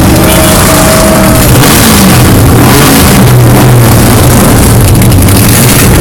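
1964 Chevrolet Corvette's 327 V8 running on the move, heard from inside the car over a heavy rush of wind and road noise. The engine pitch wavers a little in the first two seconds, then holds steady.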